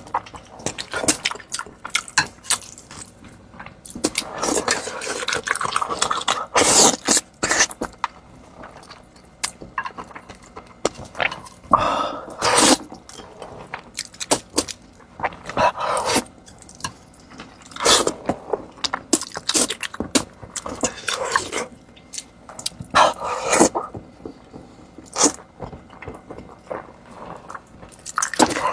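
Close-miked eating: wet chewing and lip smacking, with many short sharp smacks and clicks and a few longer slurping stretches.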